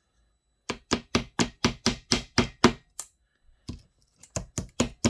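Rhythmic sharp tapping on metal chainsaw parts, about four to five taps a second. It comes in two runs with a short break near the middle, as a part of the clutch assembly is knocked down into place.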